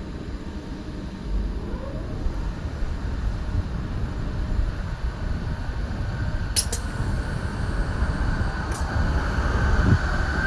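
Renfe class 449 electric multiple unit pulling away, a low rumble slowly growing louder. Two sharp clicks sound a little past halfway, and a high whine builds toward the end.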